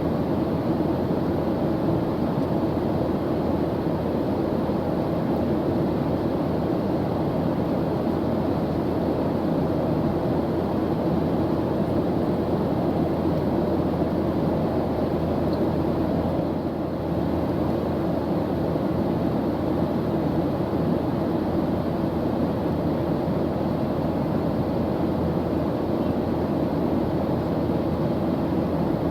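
Steady airplane engine drone with a low rumble, as heard from inside the cabin, with a faint steady hum.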